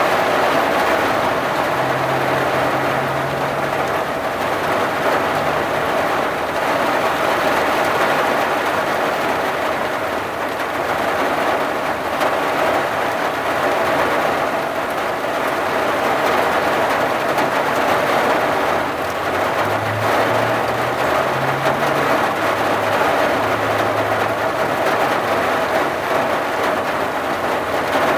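Steady rain pattering on a vehicle's windshield and roof, heard from inside the cab as an even, unbroken hiss.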